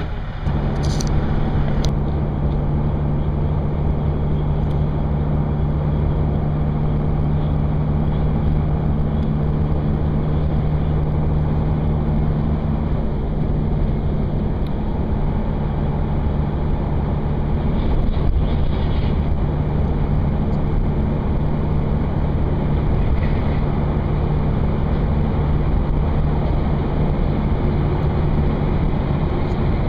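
A heavy diesel engine running at a steady speed: an even, unbroken drone with no change in pitch.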